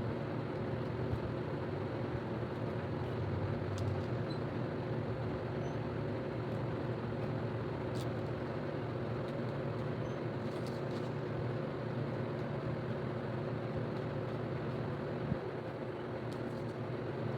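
Steady mechanical hum, like a running fan or motor, with a few faint short clicks.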